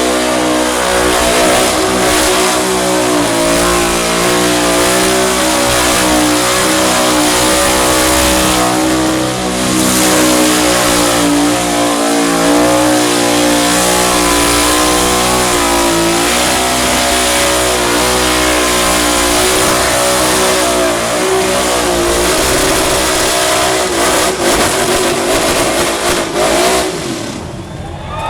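Burnout car's engine held at high revs through a burnout, its pitch wavering up and down as the throttle is worked, over a steady hiss. The engine drops away in the last second or so.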